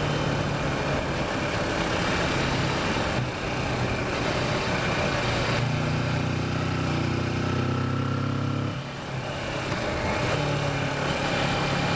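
Kawasaki Versys motorcycle engine running under way, with a steady note over wind noise. From about halfway through it pulls with a fuller, higher note, then drops off briefly just before the end of that stretch and picks up again.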